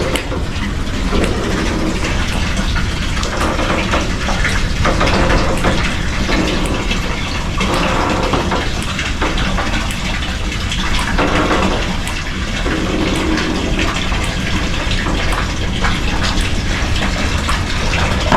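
Water gushing steadily into a horse water trough, with wind rumbling on the microphone.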